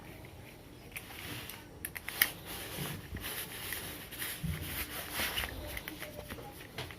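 Light, irregular clicks and scrapes of a screwdriver loosening the four screws on a washing machine's inlet-hose tap adapter.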